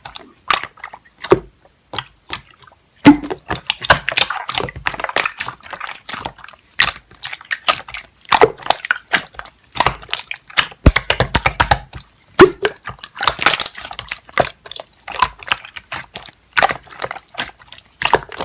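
Slime (aekgoe) being squeezed and poked by hand, giving many short, wet, sticky clicks and pops at an irregular pace.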